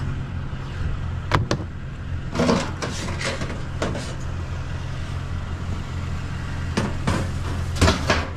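Pickup truck engine running with a steady low hum, with a series of sharp knocks and clunks over it.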